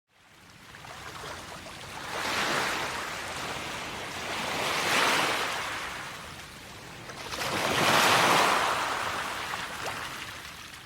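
Waves breaking and washing in, a rushing sound that swells three times, a few seconds apart, and then fades.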